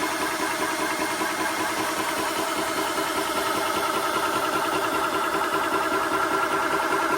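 Portable high-pressure PCP air compressor running steadily with a fast mechanical chatter. A whine in it grows a little stronger about three seconds in.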